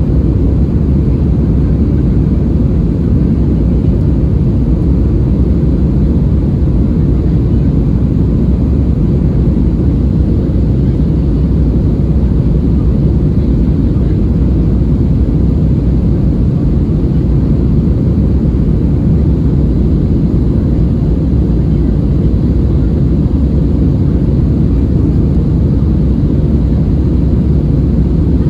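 Steady, loud low-pitched cabin noise of an Airbus A320-216's CFM56 turbofan engines running at high thrust, heard from a window seat behind the wing.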